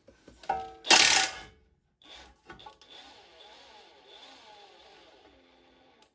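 A power tool, most likely a cordless impact wrench, spins up and hammers in one loud half-second burst about a second in, breaking loose the 15 mm nut on the lower ball joint bolt. A fainter mechanical whir with wavering pitch follows until near the end.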